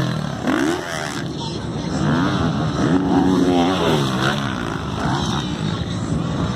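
Motocross bikes' engines racing, their pitch rising and falling again and again as the riders work the throttle.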